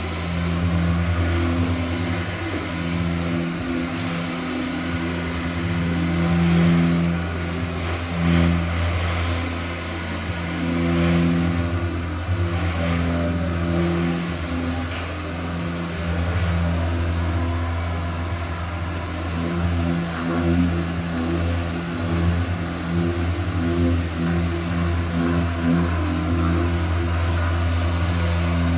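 Electric sanding machine running steadily on car body filler, a constant motor hum that rises and dips a little as it is worked over the panel.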